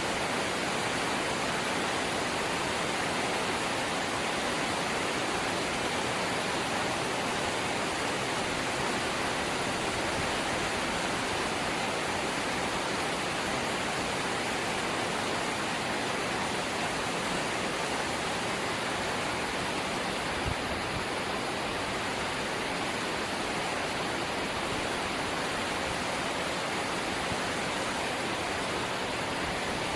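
Light rain falling with a steady, even hiss.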